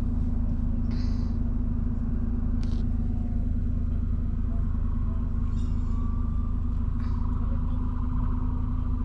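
A motor vehicle engine running at a steady idle, a constant low hum.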